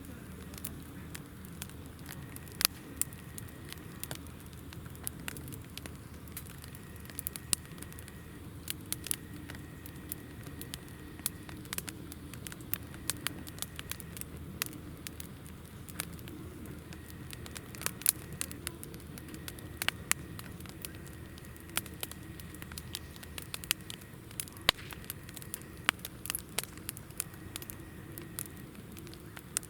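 Campfire of hinoki (Japanese cypress) firewood burning, crackling with frequent irregular sharp pops over a soft low rush of flame.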